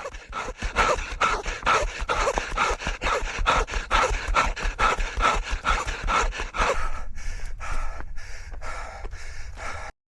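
A runner panting hard over rhythmic footfalls, about three steps a second, the steps thinning out and slowing about seven seconds in before the sound cuts off suddenly.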